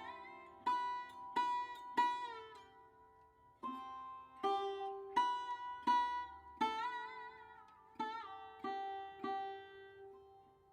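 Instrumental music: a slow melody of single plucked notes on an Indian-style string instrument, each note ringing out and fading, several sliding or bending in pitch, over a faint steady drone.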